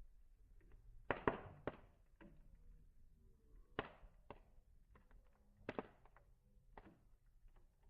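Wood campfire crackling quietly, with a handful of sharp snaps and pops from the burning wood. The loudest come as a quick cluster about a second in.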